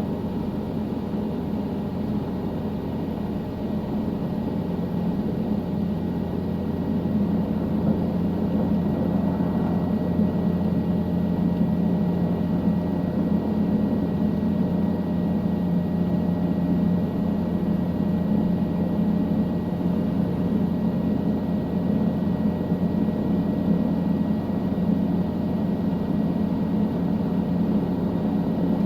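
Helicopter in flight heard from inside the cabin: a steady drone of engine and rotors, growing a little louder about five seconds in.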